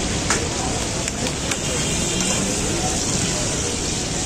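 Beef chapli kababs frying in oil in a large wide iron pan, a steady sizzling hiss, with a few sharp clicks of a long-handled metal spatula against the pan.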